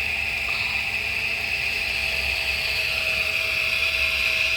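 Small electric motors and gears of a radio-controlled toy excavator whirring steadily as it works, with a constant high-pitched whine.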